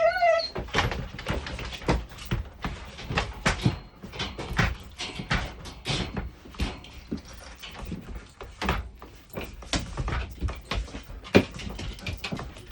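A shut-in dog scratching and bumping at a door, with many irregular scrapes and knocks and a brief whine at the start.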